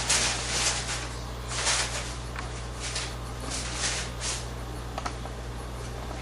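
Irregular rustling and rubbing noises in a string of short swishes, over a steady low hum.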